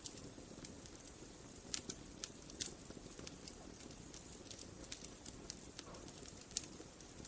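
Wood fire crackling: irregular sharp pops and snaps over a steady low rush of the burning fire, with one louder pop about six and a half seconds in.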